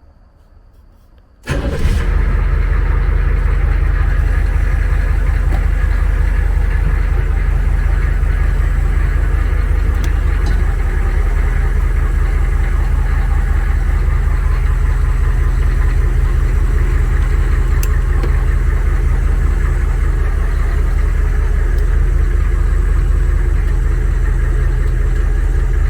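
HMMWV's diesel V8 engine comes on abruptly about a second and a half in, then runs steadily at idle with a deep, even rumble.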